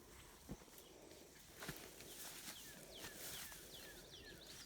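Faint bird chirping: a quick run of short, falling chirps in the second half, over near quiet, with a couple of soft knocks earlier.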